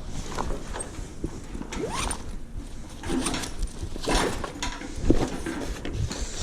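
Stored items being handled and shifted about: scattered knocks, rustles and scrapes, with a short rising scrape about two seconds in.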